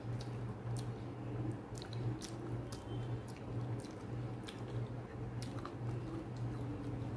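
Close-up eating sounds of a person eating rice and chicken curry by hand: chewing with many short, wet mouth clicks, and fingers squishing rice and curry on a plate. A low steady hum runs underneath.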